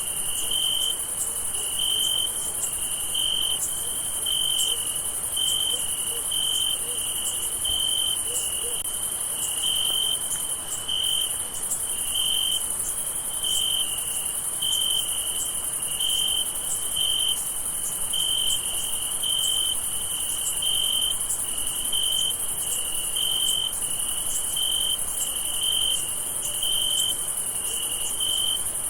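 Crickets chirping at night: one loud, regular chirp pulsing a little more than once a second over a steady, high-pitched trill of many insects.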